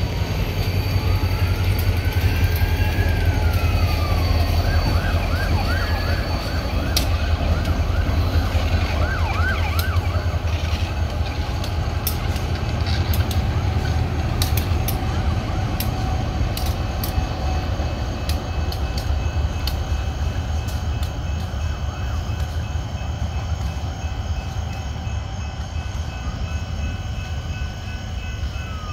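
Freight train of empty gondola cars and two diesel locomotives rolling past with a steady low rumble and scattered clicks. A siren sounds over it, wailing up and down, switching to a fast yelp for a few seconds, then wailing again near the end.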